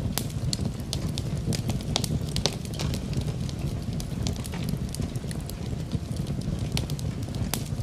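Wood fire in a fireplace crackling, with many sharp, irregular pops over a steady low rumble, mixed with the hiss of rain.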